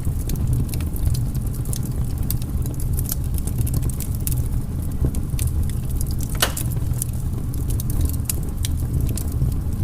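Firewood burning: a steady low rumble of the fire with many small crackles and pops scattered through, and one sharper pop about six and a half seconds in.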